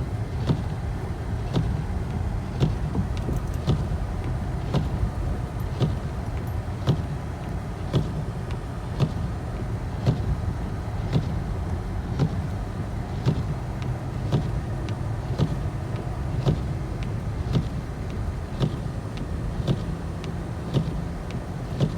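Car driving, with a steady low engine and road rumble and a short sharp knock repeating evenly about once a second.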